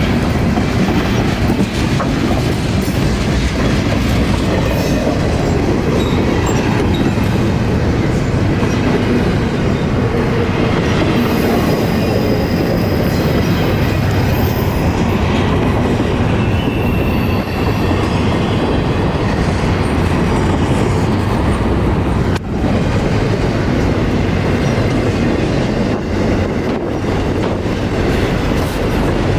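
Train passing close by: a steady rumble and clatter of wheels over the rails, with faint high-pitched wheel squeal near the middle.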